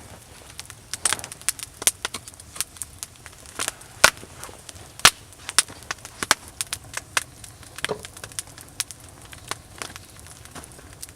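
Wood campfire crackling: irregular sharp snaps and pops, several a second, the loudest about four and five seconds in.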